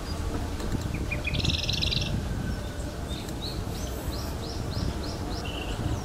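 Small songbirds singing: a quick high trill about one and a half seconds in, then a run of repeated short falling notes, about three a second, in the second half. Underneath is a steady low rumble from the moving bicycle.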